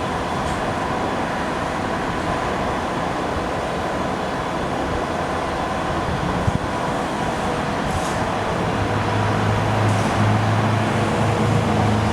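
Bobcat skid steer loaders working with a cold planer and a road sweeper: steady engine and machinery noise, with a deep engine hum coming up louder about nine seconds in.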